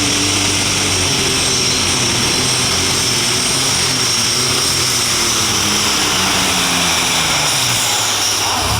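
A turbocharged diesel super stock pulling tractor running hard at high revs. A high turbo whine rides over the engine note, which drops slowly in pitch.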